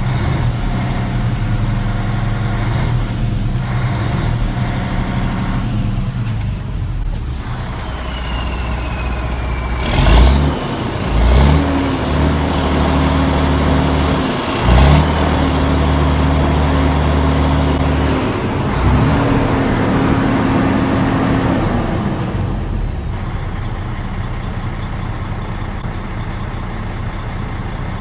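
2006 Mercedes-Benz OM460LA 12.8-litre inline-six diesel running on a test run in a truck, its speed stepping up and down several times. Three sharp loud bangs come about ten to fifteen seconds in.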